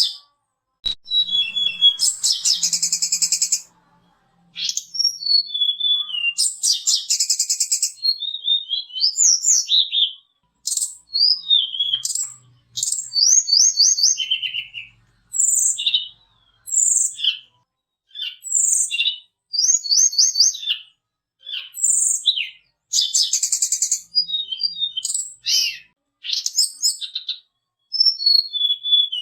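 Tledekan gunung (sulingan), an Indonesian songbird, singing a varied song of short high phrases. Quick falling whistles alternate with buzzy rattling trills, each phrase followed by a brief pause.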